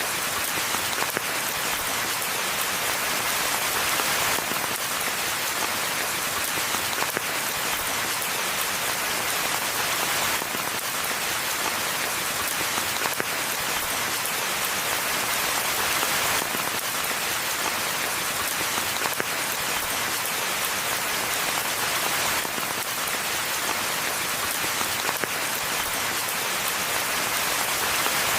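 Steady rainfall, a dense even patter of drops.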